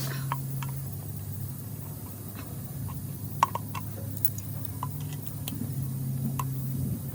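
A motor humming steadily, its tone changing about a second in, with scattered short, light clicks.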